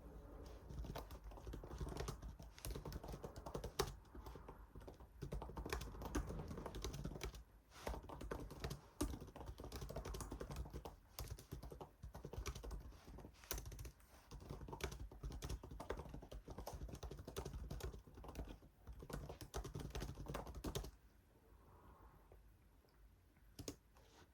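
Typing on a computer keyboard in fast, uneven runs of key clicks with short pauses. The typing stops about three seconds before the end, with one more click near the end.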